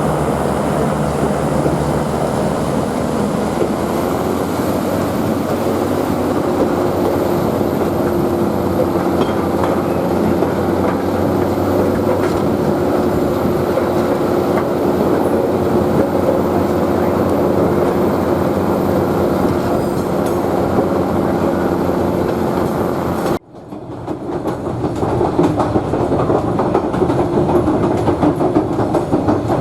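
Queensland Rail 2000 class diesel rail motor running along the track: a steady engine drone with the wheels clicking over the rail joints. About 23 seconds in the sound cuts off suddenly, then builds back up over a few seconds.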